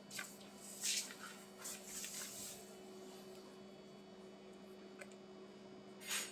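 Budgerigars giving short, high chirps and chatter, a cluster in the first couple of seconds and a louder chirp near the end, over a steady electrical hum.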